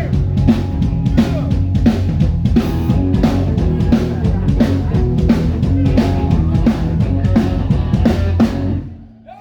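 Live band playing a song with a drum kit beat of kick and snare over a bass line. The band stops near the end.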